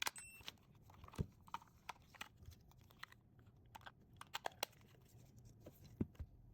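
Scattered plastic clicks and taps as batteries are fitted into the flow meter's battery compartment and the unit is handled, irregular and fairly quiet, the sharpest click right at the start.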